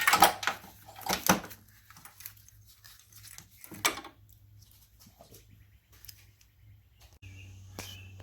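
Hand tools and metal car parts clinking and knocking several times in the first second or so, then once more, followed by quiet handling. Near the end a steady low hum comes in abruptly and a bird chirps.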